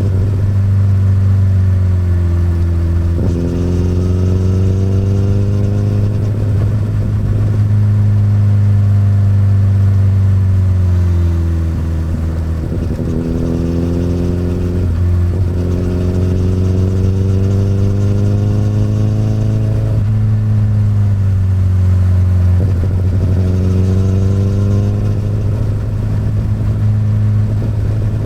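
Honda CBR1000RR inline-four motorcycle engine running through an Akrapovic exhaust while riding, its pitch rising and falling with the throttle, with several sudden drops in pitch at gear changes.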